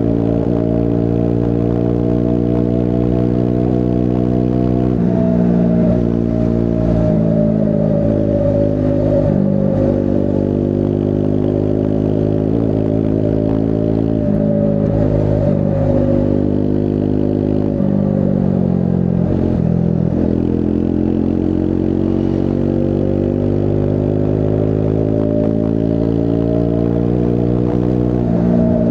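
Triumph Scrambler 400 X's single-cylinder engine running under way. Its note climbs and then drops briefly several times as the revs change between gears.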